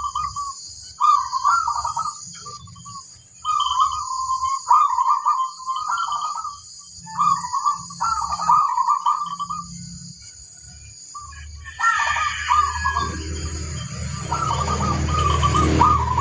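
Zebra dove (perkutut) cooing: repeated short trilled coo phrases with pauses between them, over a steady high hiss. A low rumbling noise joins about three quarters of the way through.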